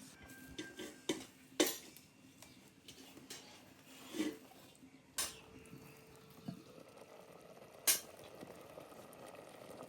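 Cutlery and dishes clinking: a handful of separate sharp knocks and clinks, spaced a few seconds apart, over faint background hum.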